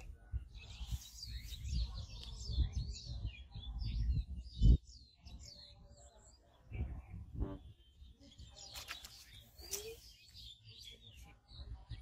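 Small birds chirping and twittering, many short calls, over uneven low rumbling. A single dull thump about five seconds in is the loudest sound, and a few clicks and rustles come near the end.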